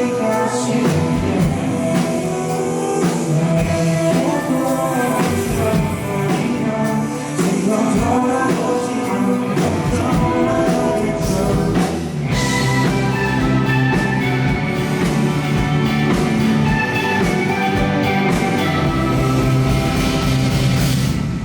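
Rock band playing live, with singing over electric guitar and drums. The band gets fuller and brighter about twelve seconds in.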